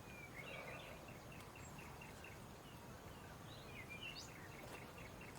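Faint birdsong: a bird repeating a short high chirp several times a second, with a few swooping notes about four seconds in.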